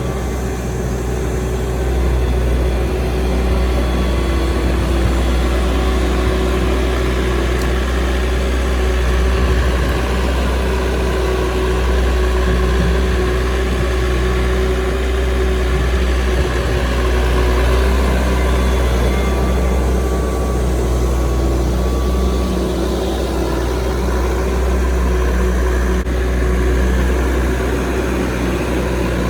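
Heavy machinery engine running steadily at a fairly constant speed, with a low hum.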